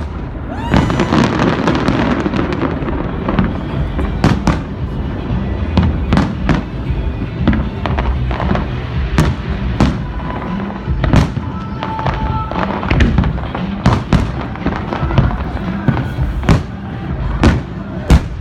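Aerial fireworks display: a continuous run of sharp bangs and crackling from bursting shells, with music playing underneath.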